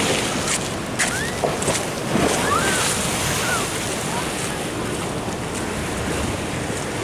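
Ocean surf washing steadily in, with wind rushing over the microphone.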